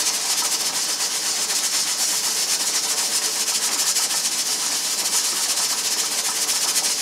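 Pressure canner venting steam with a steady hiss and a fast, fine rattle, typical of its weighted pressure regulator rocking at pressure.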